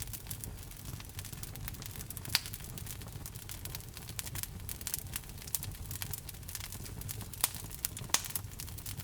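Fire crackling in a fireplace: many small snaps over a low, steady rumble, with a few louder pops, one about two and a half seconds in and two near the end.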